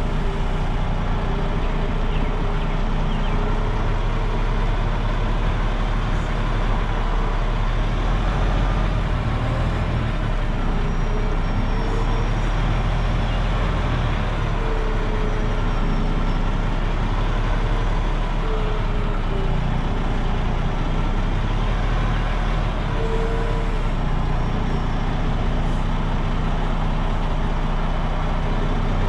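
Semi-truck diesel engine running steadily at low speed while the rig reverses.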